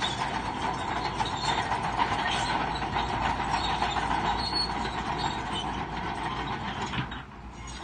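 Crawler bulldozer working, its steel tracks squealing and clanking over a steady machine noise; the noise dips briefly near the end.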